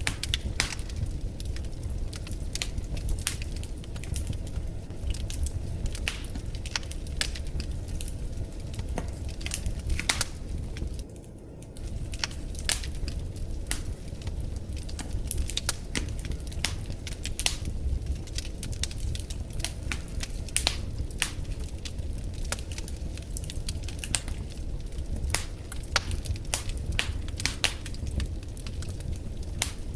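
Wood fire in a fireplace crackling and popping, with frequent irregular snaps over a steady low rumble of the flames. The crackle briefly drops out for about half a second around eleven seconds in.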